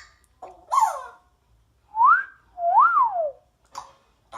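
Pet parrot whistling: a short falling note about a second in, then two whistled glides that each rise and fall in pitch.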